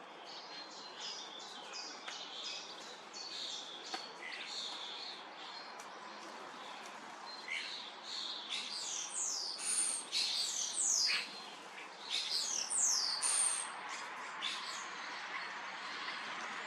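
Common starlings calling: a run of short chirps and quick falling whistles that grows busier and louder about halfway through, then thins out again.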